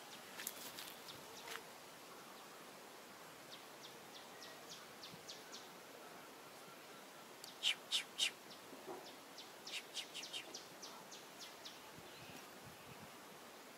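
Runs of short, sharp bird chirps over quiet outdoor background noise, the three loudest close together about eight seconds in.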